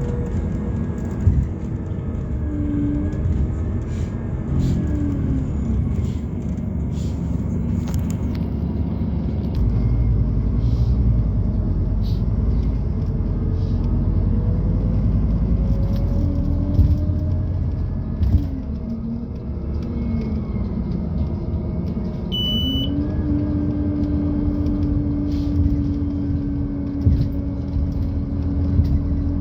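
Inside a Scania Citywide LFA city bus running on compressed natural gas, with its Scania OC09 gas engine and ZF automatic gearbox: the pitch of the engine and driveline rises and falls as the bus pulls away and shifts through gears, over a heavy rumble and knocks from the road. A short electronic beep sounds about two-thirds of the way through.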